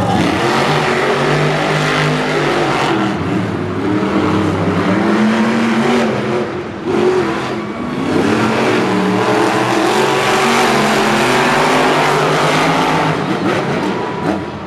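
Monster truck supercharged V8 engines revving hard, pitch climbing and falling repeatedly, with a brief drop around halfway through.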